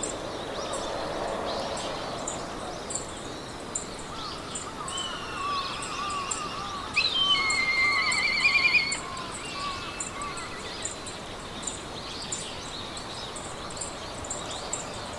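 Meadow ambience: several birds singing over a soft wind hiss, with a steady pulsing insect chirp high above. A louder trilling bird song stands out from about seven to nine seconds in.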